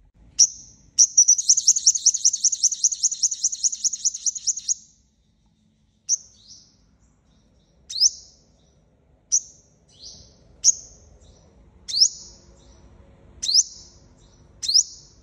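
Sunbird (the Vietnamese 'five-colour sunbird', hút mật 5 màu) singing: a short note, then a fast high-pitched trill of rapidly repeated notes for about four seconds, followed after a pause by single sharp, falling chip calls repeated roughly every second and a half.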